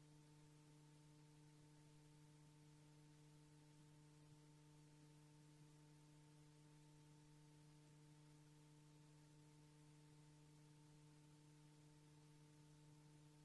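Near silence: a faint, steady electrical hum with tape hiss, and no sound of the cars.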